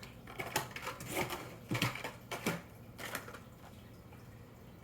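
Hot Wheels diecast toy cars being handled, a string of light clicks and clacks during the first three seconds.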